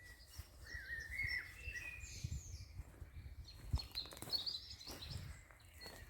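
Songbirds singing: warbled phrases and higher chirps over a low rumble, with a few dull thuds, the loudest a little over halfway through.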